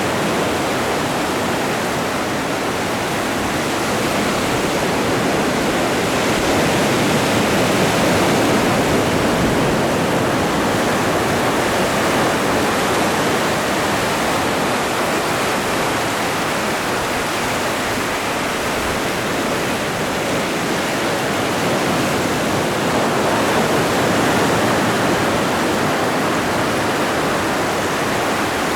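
Ocean surf: a steady wash of waves breaking and running up the shore, swelling and easing slowly in loudness.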